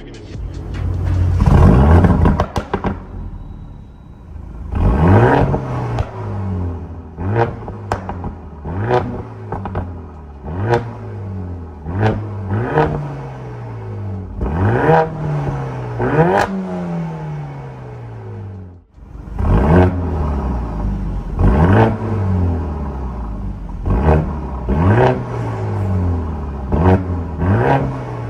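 Mercedes-AMG CLA45 S's turbocharged four-cylinder M139 engine, breathing through an aftermarket MS-R mid-pipe and the factory muffler, revved in repeated short throttle blips: each rises quickly in pitch and falls back, over and over.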